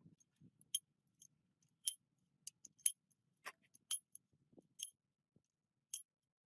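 Small metallic clinks, short and high-pitched, about one a second.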